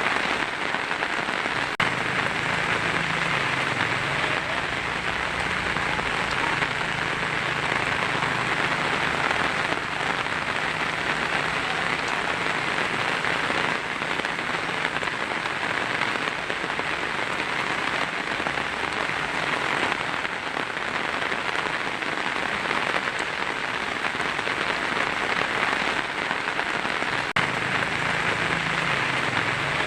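Heavy rain drumming steadily on a tin roof, a dense even patter, with a faint low rumble underneath for much of the first half and again near the end.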